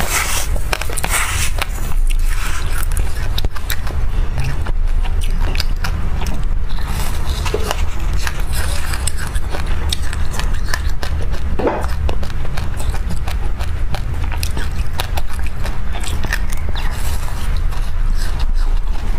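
Close-up chewing of a mouthful of dry black sesame seeds: a dense run of small crunching clicks over a steady low hum.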